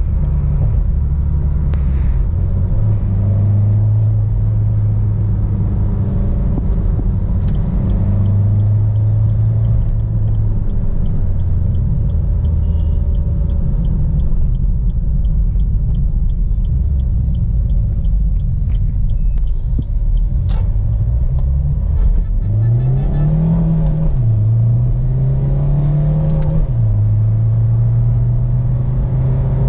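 Maruti Suzuki Baleno 1.3 DDiS four-cylinder turbodiesel engine running on the move at steady revs, with road noise underneath. About two-thirds of the way through, the engine note rises, drops sharply, rises again and then settles, like a gear change while accelerating.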